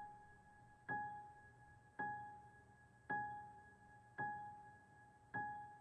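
A single high piano note struck quietly over and over at an even pace, about once a second, six strikes in all, each fading before the next: the sparse intro to a song.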